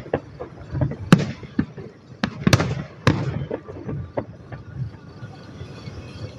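Fireworks going off in a run of sharp bangs, some with a crackling tail. The bangs are loudest in the first three seconds or so and thin out after about four seconds.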